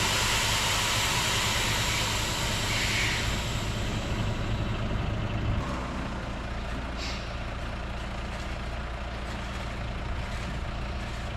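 Heavy truck engine idling steadily, with a long hiss of air over the first few seconds that fades out about halfway through; the engine note drops slightly at the same point.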